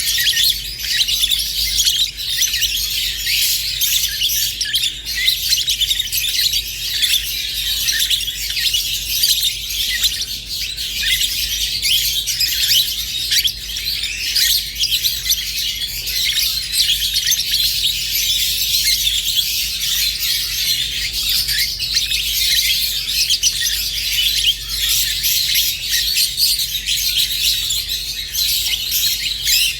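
Pet rosy-faced and Fischer's lovebirds chirping and chattering continuously, a dense flurry of rapid high-pitched tweets with no pauses.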